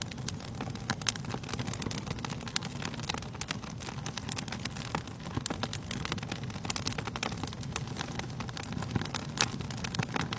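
Wood fire burning in a fireplace, crackling and popping with many irregular sharp snaps over a low steady rush of the flames.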